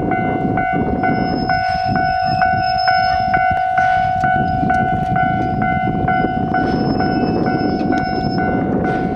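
Steam locomotive pulling away from a station, a dense low rumble with occasional bursts of hiss, under a steady ringing tone that pulses about two and a half times a second, typical of a Japanese level-crossing warning bell.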